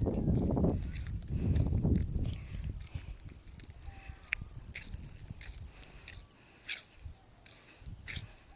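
Gusting wind buffeting the microphone with an uneven low rumble, over a steady high-pitched insect trill.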